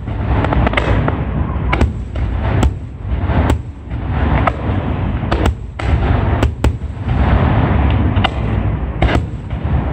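Pyrotechnic fireworks display: a rapid series of loud shell bursts, roughly one sharp bang a second, over continuous crackling and a heavy low rumble.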